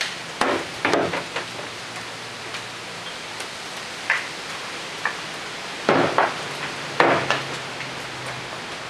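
Steady rushing wind with irregular sharp knocks and clatters of objects being rattled by the gust. Two clusters of knocks come about half a second in and around six to seven seconds in.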